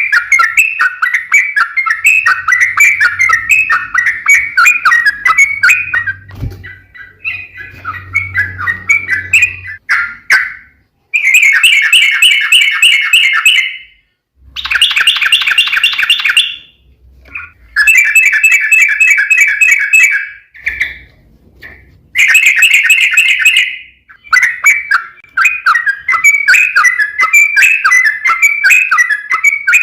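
Yellow-vented bulbul (trucuk) song: dense, rapid chattering notes, with several loud bursts of fast rolling trill (the long 'ropel') about two seconds each, separated by short pauses, in the middle.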